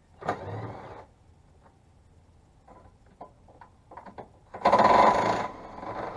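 DeWalt cordless power tool run in two short bursts, the second louder and longer, with small metallic clicks and knocks between, as bolts are worked off the rear crash bar.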